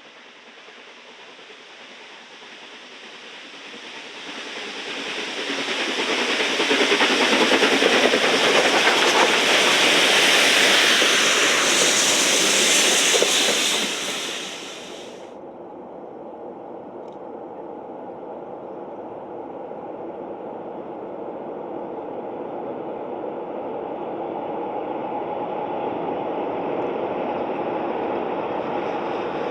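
A train passing close by. The sound builds over several seconds, is loudest for about seven seconds, then drops off sharply. A steadier rumble follows and slowly grows louder.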